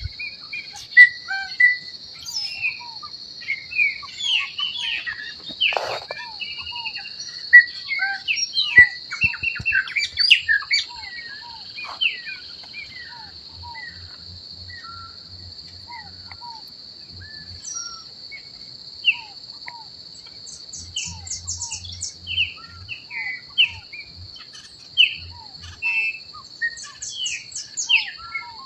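Several birds chirping and calling with many short whistled notes, busiest in the first twelve seconds and again near the end, over a steady high-pitched insect drone like crickets.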